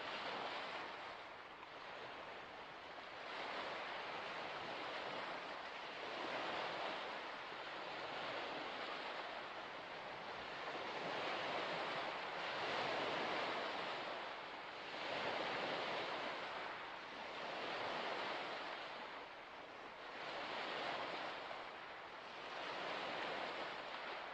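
Waves washing onto a shore in a steady series of swells, one every two to three seconds.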